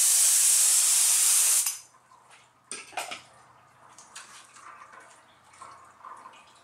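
Loud steady hiss of activator being sprayed over hydrographic film floating on the dip tank, cutting off about two seconds in. After that come quieter water sloshing, drips and a few small knocks as the work goes on in the tank.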